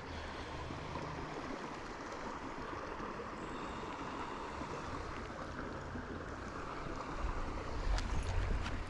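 Steady wash of running creek water. Low wind rumble on the microphone rises near the end.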